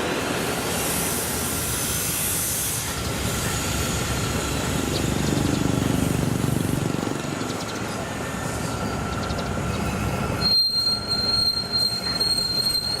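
1967 Hitachi RHN diesel railcar set moving along the track, engine and wheels rumbling. About ten seconds in, a high, steady wheel squeal sets in.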